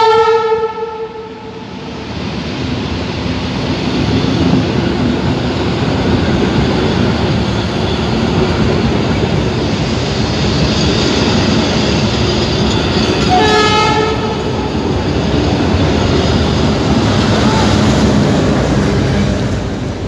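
Passenger train's horn ending about a second and a half in, then the train running past close by on the rails in a steady roar of wheels and coaches, with a second, short horn blast about two-thirds of the way through.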